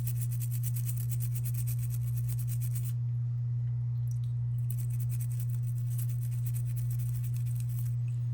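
A steady low-pitched hum, a single unchanging tone.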